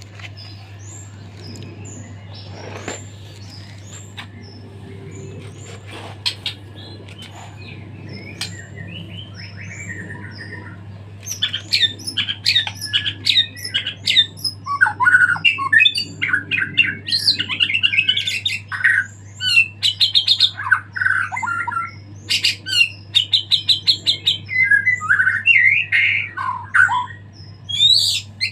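White-rumped shama singing, a bird just out of its moult and in full song: sparse quiet chirps at first, then from about eleven seconds in a loud, fast, constantly changing song packed with mimicked phrases. A steady low hum runs underneath.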